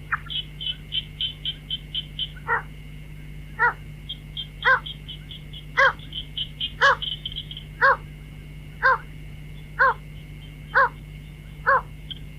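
White-breasted waterhen calling: one short note repeated about once a second, about a dozen times, with a quick high ticking chatter between the notes and a steady high whine beneath.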